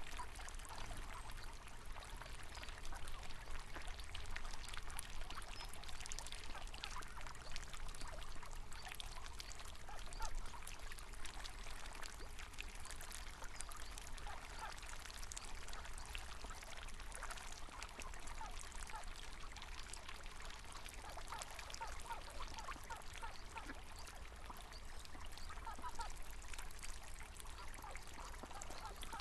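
River water running and babbling steadily, with ducks quacking now and then, more often in the last few seconds.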